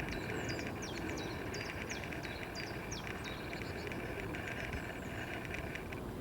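A small bird singing a quick series of short, sharp high notes for the first few seconds, over a steady outdoor rushing background.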